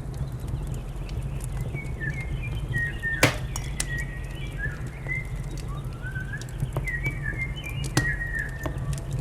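Songbird twittering in quick chirping phrases over a wood fire crackling with sharp snaps and a steady low rumble; one loud snap about three seconds in.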